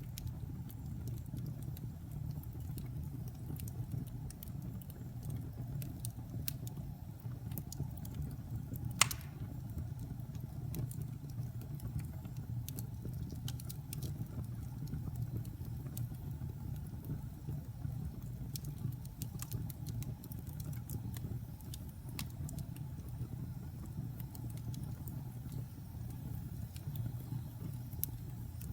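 Wood fire burning in a fireplace: a steady low rumble of flames with scattered crackles of the wood, and one loud pop about a third of the way in.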